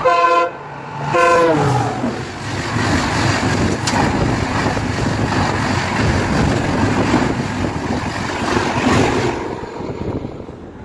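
A locomotive horn sounds in two blasts, the second falling in pitch as the engine goes by. A superfast express train then rushes past at high speed, its coaches running loudly over the rails until the noise fades near the end.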